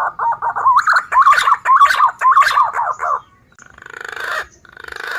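Recorded green pigeon (punai) call played as a bird lure: a run of quick, warbling whistled notes for about three seconds, followed by two short, rasping buzzy bursts.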